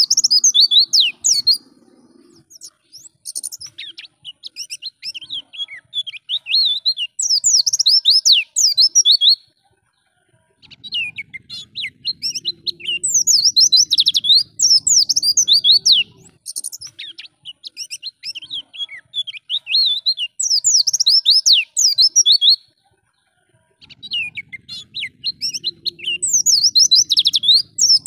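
White-eye (pleci) singing a fast, busy song of high twittering chirps in long bursts, breaking off briefly about ten seconds in and again about twenty-three seconds in. A faint low hum sits under some phrases.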